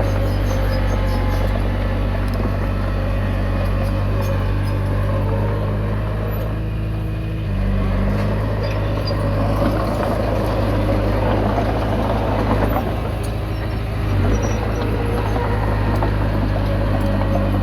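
Komatsu D20P bulldozer's diesel engine running steadily under work. Its note shifts slightly about seven seconds in, and a rougher, clattering noise builds over it for a few seconds before easing.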